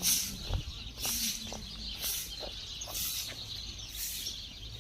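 Small birds chirping in short calls, over a high hiss that swells and fades about once a second.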